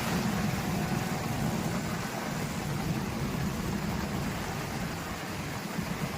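Steady rushing noise of heavy rain and floodwater, with a low rumble underneath.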